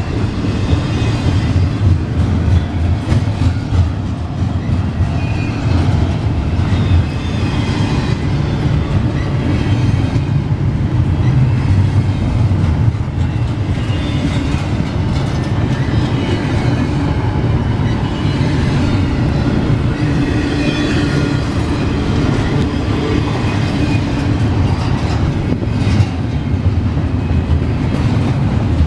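A train rolling past close by: a loud, steady rumble of wheels on the rails that runs unbroken.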